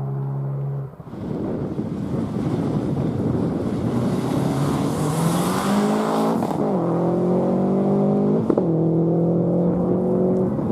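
A four-wheel-drive rally car's engine accelerating hard, its pitch climbing, dropping at an upshift about two thirds of the way through, then climbing again, with a strong hiss of tyre and road noise during the first pull and a sharp crack shortly after the gear change.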